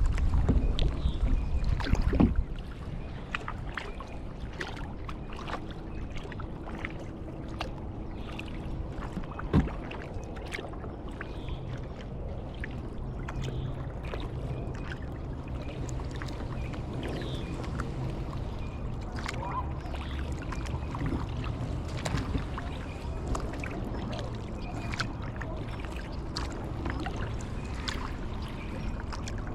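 Kayak paddling: the paddle blades dipping and dripping, water splashing and lapping against the hull as small irregular splashes, with one louder knock about ten seconds in. A loud rumble of wind on the microphone covers the first couple of seconds, then drops away.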